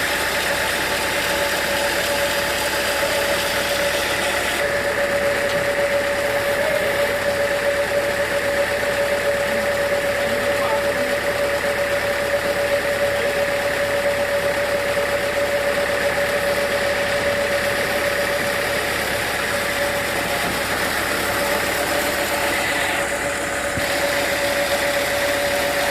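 Sawmill machinery running steadily, a constant whine over an even mechanical hum.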